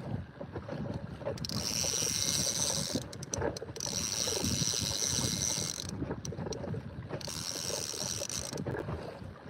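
Fishing reel being cranked in three spells of a second or two each, retrieving line with a hooked fish on, over a steady low rumble of wind and water.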